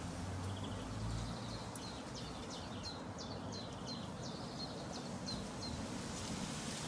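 A bird singing a run of short, high, downslurred notes, about three a second, stopping shortly before the end, over a steady background hiss.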